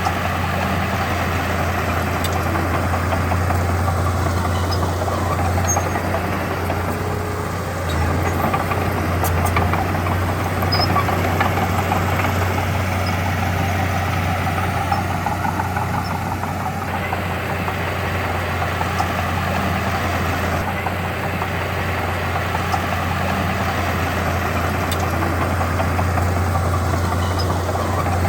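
Heavy diesel engine of earthmoving equipment running steadily.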